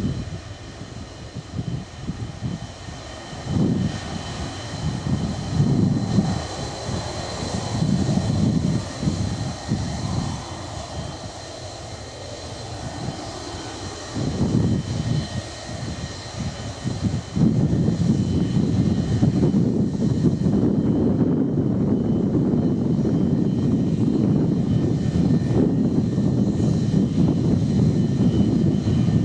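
Boeing 727-200's three Pratt & Whitney JT8D turbofan engines running, with a steady high whine over an uneven low rumble. About seventeen seconds in the rumble suddenly gets louder and stays steady, as the engines are brought up to power for the take-off.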